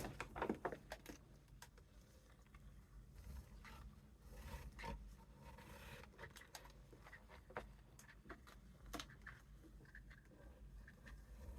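Faint scraping, rustling and light clicks of a paper gift bag being handled and pressed onto poster board, busiest in the first second.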